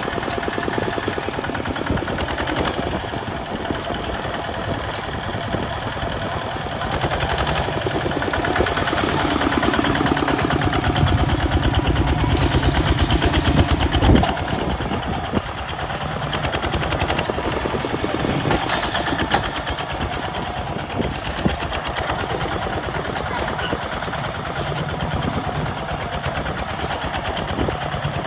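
Kubota RT single-cylinder diesel engine of a homemade walking tractor chugging with fast, even firing pulses while plowing, and getting louder for a few seconds midway.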